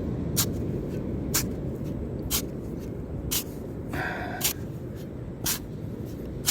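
Sharp short ticks about once a second, very evenly spaced, over a steady low rumble, with a brief pitched tone about four seconds in.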